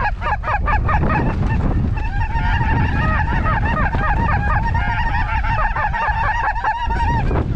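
Lesser snow geese calling in a dense, overlapping chorus of short, high honks, with wind rumbling on the microphone underneath.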